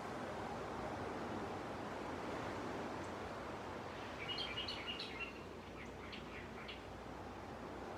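Sea waves washing onto the beach as a steady rush. About halfway through a small bird gives a quick run of high chirps, then a few fainter ones.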